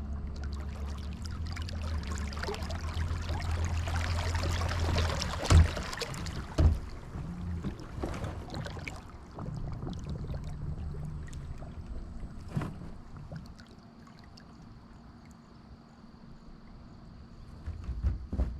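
Kayak-mounted electric trolling motor humming steadily with water rushing past the hull, cutting off about five seconds in. A couple of sharp knocks follow, then quieter water with a few more knocks near the end.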